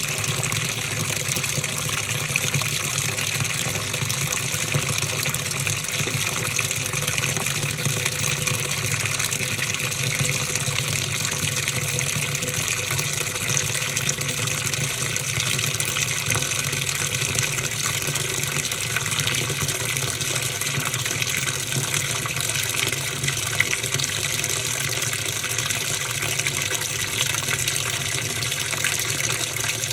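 Top-loading washing machine running, with a steady, unbroken rush of water.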